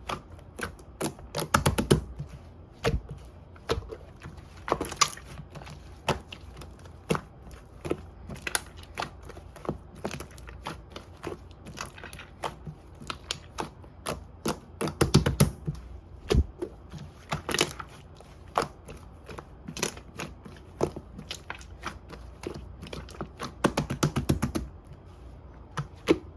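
Slime being squished, pressed and poked by hand, giving irregular sticky clicks and popping air pockets, with a few louder bunches of crackling pops.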